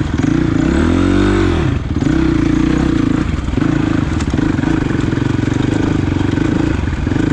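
Suzuki DRZ400S single-cylinder four-stroke dirt bike engine under way on the trail: revved up and eased back down in the first two seconds, then running steadily at a constant pitch.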